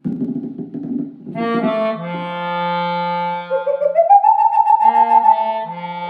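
Melodica playing held chords, then a melody that climbs to higher notes about halfway through over a sustained low note. It opens with a low, rough, rapidly pulsing sound for about the first second.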